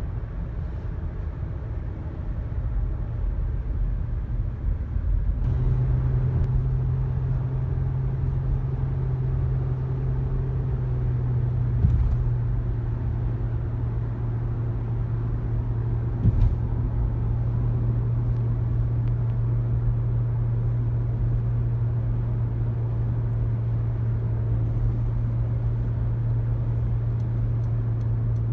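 Honda Odyssey minivan engine and road noise, driven hard up a mountain road: a steady drone that rises in pitch and gets louder about five seconds in, then holds. Two short, sharp thumps come near the middle.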